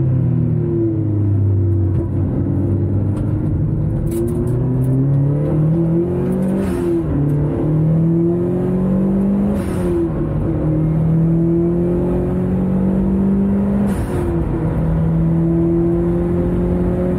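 A car's engine heard from inside the cabin at speed on a race track. It pulls up through the revs, drops in pitch sharply several times, and holds a steady note for the last few seconds.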